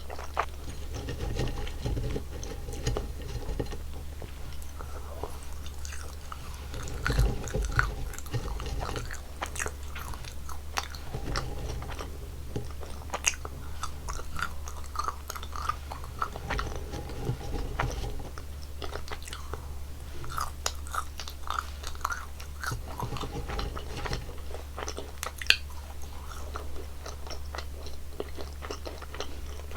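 Close-up chewing and biting of sweet jelly candies, with a run of sticky smacks, squishes and occasional crunches. A steady low hum sits underneath.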